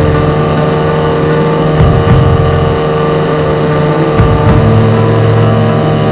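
Radio-controlled model airplane's motor and propeller running at a steady pitch, with a low rumble of wind on the onboard camera that swells and eases every second or two.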